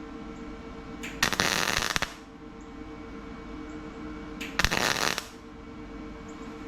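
MIG welder striking two short crackling tacks on steel sheet metal, the first about a second long and the second shorter, about three seconds later. The welds are being made with the shielding gas left off, which the welder blames for the bad welds.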